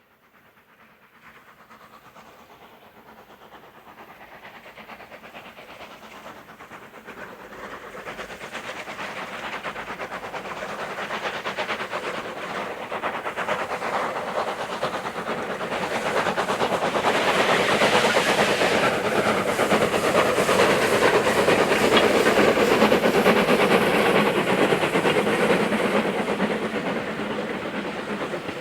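Steam locomotive and its train approaching and running past, growing from faint to loud over about seventeen seconds and easing slightly near the end.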